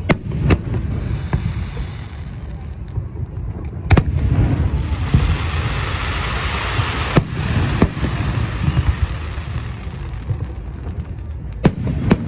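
Aerial fireworks bursting: scattered sharp booms, a few close together, with a hissing, crackling stretch in the middle over a steady low rumble.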